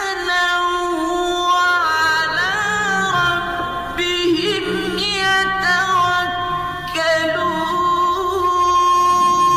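Background music: a woman singing a melody of long held notes with sliding, ornamented pitch bends, over a low accompaniment that enters about two seconds in.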